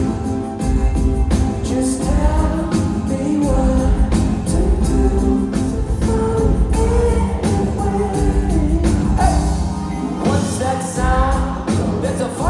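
Live band playing a song with singing over a steady drum beat.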